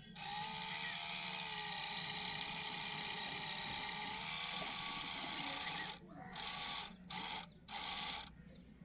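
A small motor whirring steadily with a slightly wavering pitch for about six seconds, then switched on in three short bursts.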